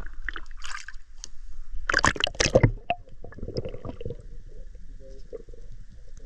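Water splashing and sloshing around a swimmer, with a loud burst of splashing about two seconds in and softer gurgling after it.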